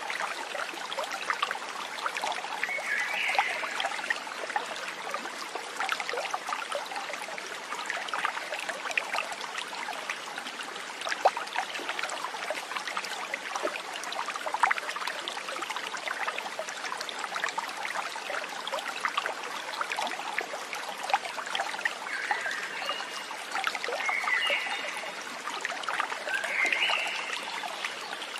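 Water trickling and babbling steadily over stones, as in a small stream. A few short chirping animal calls come through about three seconds in and several times near the end.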